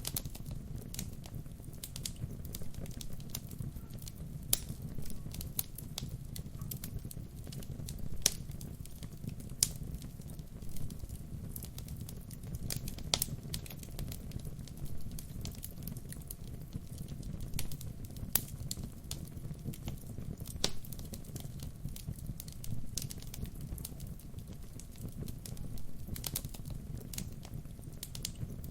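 Wood fire burning with a steady low rumble of flames and irregular crackles and pops, a few of them sharp and loud.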